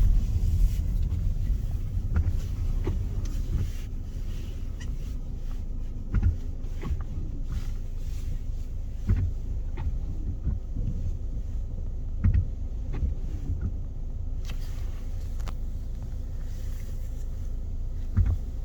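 Steady low rumble with scattered short knocks and taps.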